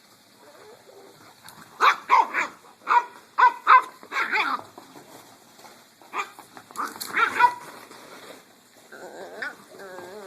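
Dogs barking as they play: a quick run of sharp barks, a few more a couple of seconds later, and a softer wavering whine near the end.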